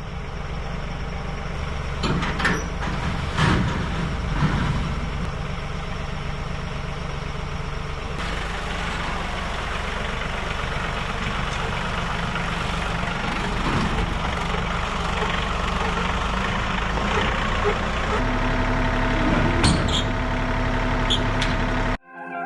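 Vehicle engine running steadily, with a few knocks and rattles; the engine note changes about eighteen seconds in.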